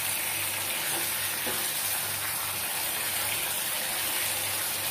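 Chicken pieces frying in oily spice paste in a non-stick pan, sizzling steadily while being stirred with a plastic spatula: the chicken is being browned (kosha) in the masala.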